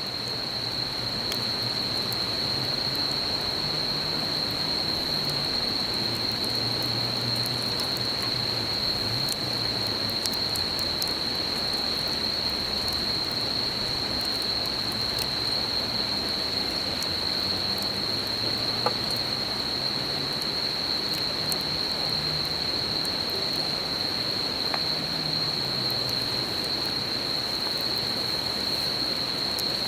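An insect's unbroken high-pitched trill over the steady rush of a river, with the scattered small crackles of a campfire and one sharper pop about two-thirds of the way through.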